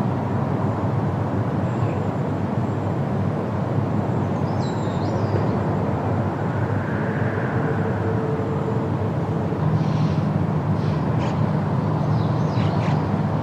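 Steady wind noise with a low rumble, blowing through forest leaves, with a few faint high bird chirps about a third of the way in and again near the end.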